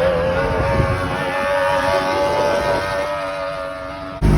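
Boat outboard motor running under way at a steady speed, with an even engine tone over water and wind noise.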